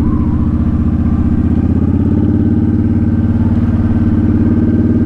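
Honda Shadow Spirit 750's V-twin engine running steadily at low revs, with an even low pulse.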